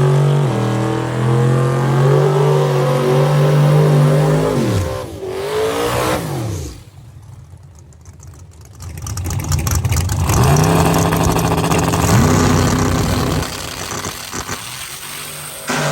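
Drag-racing car engines at full throttle, the pitch held high and then falling away about five seconds in. After a quieter stretch an engine revs up again about ten seconds in and runs on until a sudden cut near the end.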